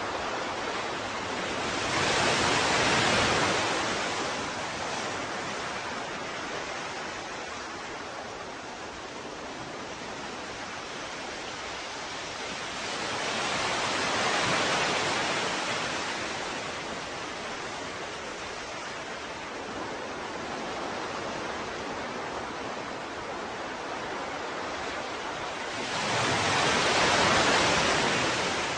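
Ocean waves washing ashore over a steady rush of surf, swelling louder three times, about every twelve seconds.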